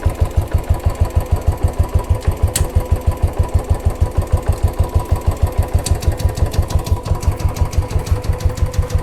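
Royal Enfield Classic 350's single-cylinder engine idling steadily, an even beat of about eight thumps a second.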